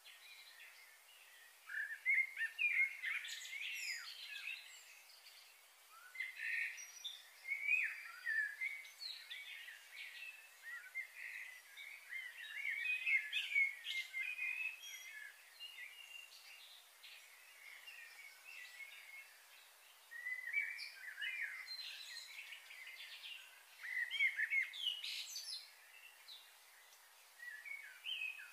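Small birds chirping and twittering in repeated bursts of quick high notes, with short lulls between the bursts.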